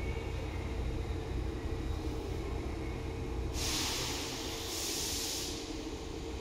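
Inside a Seibu 2000 series electric train car: a steady low rumble and hum, with a loud hiss of compressed air lasting about two seconds, starting a little past the middle.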